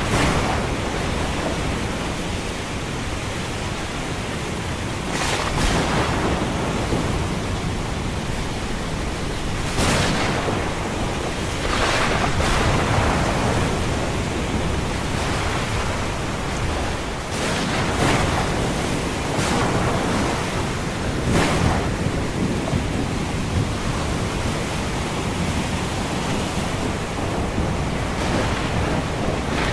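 Ocean surf in a steady rush, with waves breaking in surges every few seconds, under a low thunderstorm rumble.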